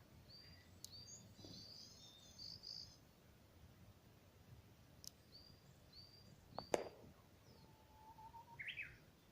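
Faint birdsong: small birds give short, high chirps, repeated in a brief series, and near the end a Japanese bush warbler (uguisu) sings its 'hoo-hokekyo', a held low whistle rising into a quick, higher flourish. A few sharp clicks come in between.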